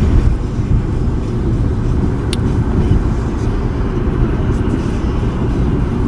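Steady low rumble of road and engine noise inside a moving car's cabin, with one short click a little over two seconds in.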